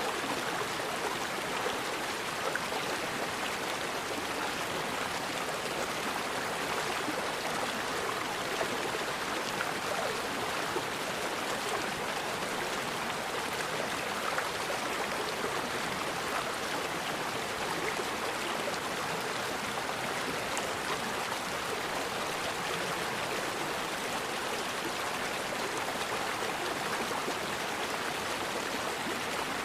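River water flowing steadily over rocks, an even rushing and babbling with no pauses.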